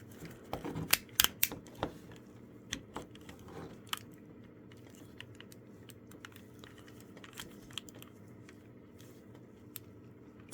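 Hard plastic toy parts handled and clicked together as a Dino Megazord figure's legs and back panel are fitted into place. A run of sharp clicks comes in the first two seconds, a few more follow a little later, and after that only faint occasional ticks are heard.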